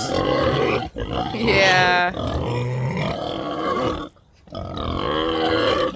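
Pigs grunting at feeding time, breaking off briefly about four seconds in, with a short spoken word near two seconds in.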